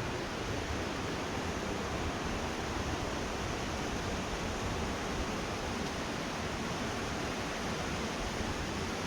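Steady rushing of a waterfall, an even, unbroken noise of falling water.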